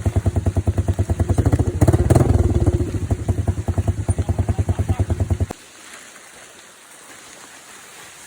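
Off-road motorcycle engine running with a fast, even pulse. It revs up briefly about two seconds in and cuts off suddenly about five and a half seconds in, leaving a soft, steady patter of rain on leaves.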